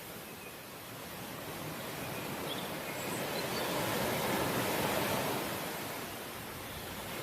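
Ocean waves washing on the shore: a steady hiss of surf that swells to a peak about halfway through and then subsides.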